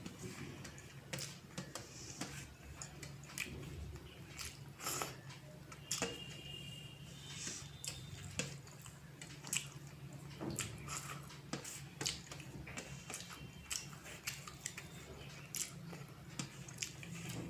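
Close-up eating sounds: chewing, with irregular wet smacks and small clicks of mouth and food, from a meal of rice, dal, fried potato and fish curry.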